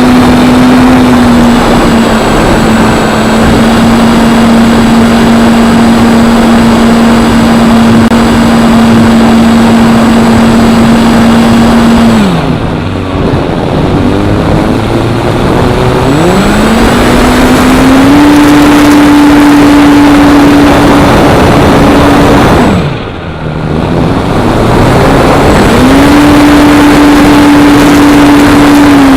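Electric motor and propeller of a Parkzone P-47 RC plane running with a steady hum, over heavy wind noise. Twice the throttle is cut: the hum glides down to almost nothing, then climbs back up within a few seconds to a slightly higher steady pitch.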